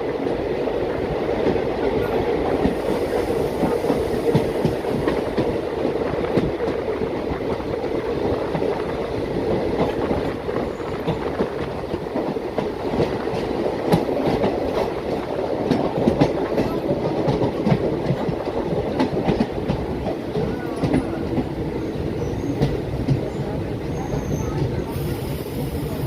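Passenger train running on the rails: a steady rumble of the coach with frequent sharp clicks from the wheels crossing rail joints.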